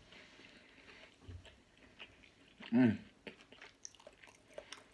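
A person chewing a mouthful of ham close to the microphone, with faint wet mouth sounds and small clicks. About three seconds in comes a short hummed "mm".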